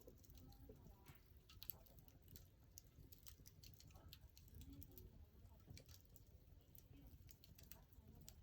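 Faint crackling of a burning wood fire: scattered small pops and snaps at irregular intervals over a low background rumble.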